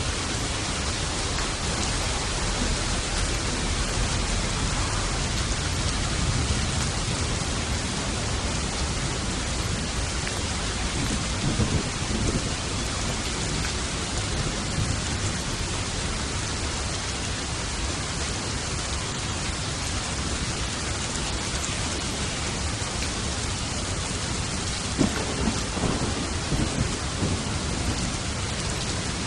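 Steady rain falling in a thunderstorm, with thunder rumbling and crackling in the middle and again near the end.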